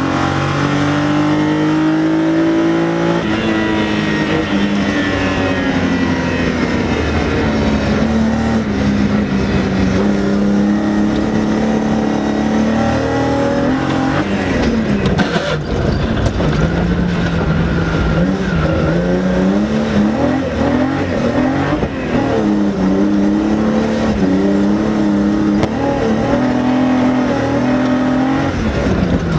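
BMW E30 rally car's engine heard from inside the cabin, revving up and dropping back again and again as the car is driven hard, with road and tyre noise underneath. A few sharp knocks come about halfway through.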